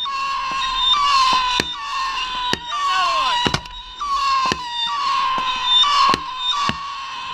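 Fireworks display being fired: a rapid series of sharp bangs, one to two a second, over a steady high whistle, with a falling whistle about three seconds in.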